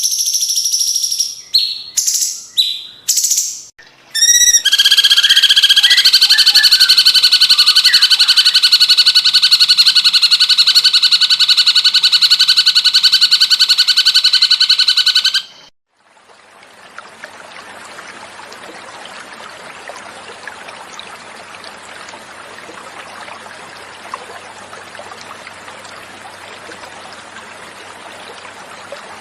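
Cucak cungkok bird song: a few short call phrases, then one long, loud, rapid trill of about eleven seconds that stops suddenly. After a brief gap, flowing water runs steadily for the rest.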